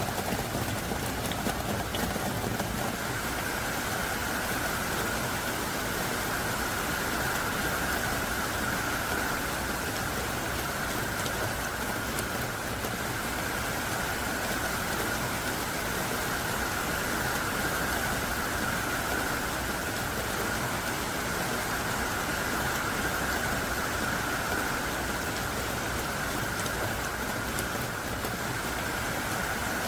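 Heavy downpour of thick, hard-falling rain, a steady dense hiss with no change throughout.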